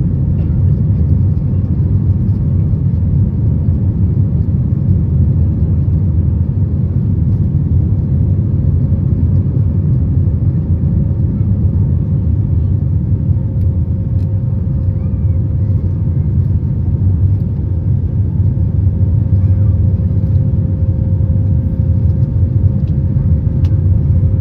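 Airbus A320 cabin noise in flight: a steady low rumble of engines and airflow, with a thin steady hum running through it.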